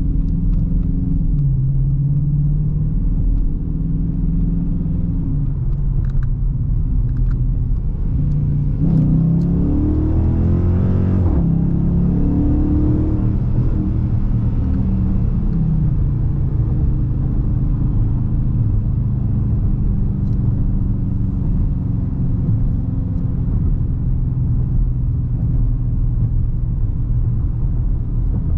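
Dodge Charger R/T's 5.7-litre HEMI V8 engine and exhaust while driving: a steady low drone, then about nine seconds in the revs climb quickly under acceleration for a couple of seconds and drop suddenly at an upshift, after which it settles back into a steady cruise.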